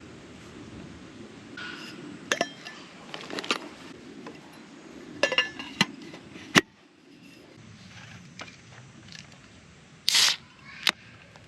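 Camping gear being handled: a scatter of light clinks, clicks and short scrapes, with a sharp click about six and a half seconds in and a short, louder scrape near the end.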